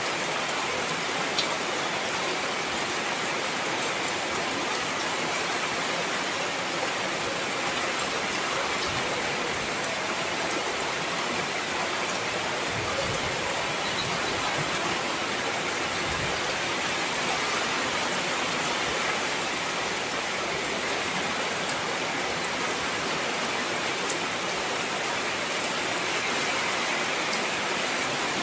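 Heavy rain falling steadily, an even hiss of water, with a couple of sharper single drop clicks standing out now and then.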